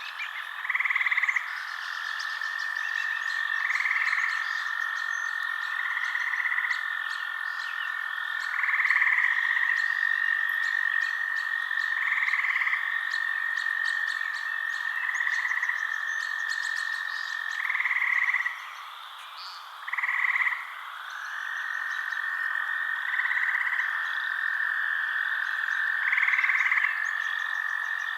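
Frogs calling at night: short croaks repeating every two to three seconds over a continuous high trill, with faint scattered clicking chirps. The trill drops out briefly a little past the middle and then returns.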